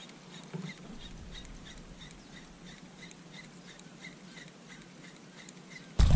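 A bird calling quietly, repeating a short chirp about two to three times a second. Near the end a sudden loud low rumble cuts in.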